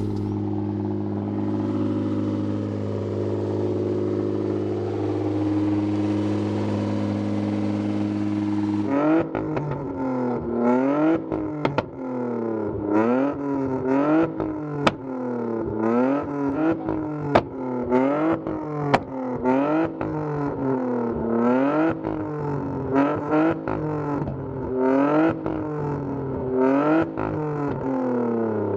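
BMW E30's swapped-in M52 2.8-litre straight-six running steadily at raised revs, then from about nine seconds in being blipped over and over, each rev rising and falling in a little over a second, with sharp exhaust pops and cracks as it comes off the throttle. Very loud.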